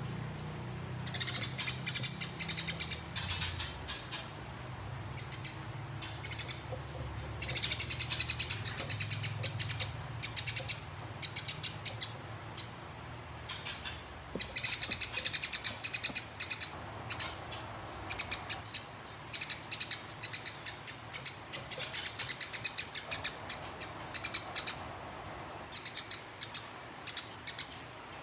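Eurasian tree sparrows (burung gereja) chattering in fast, rolling runs of high chirps, the aggressive 'fighting' song, in repeated bursts of a few seconds with short pauses between them.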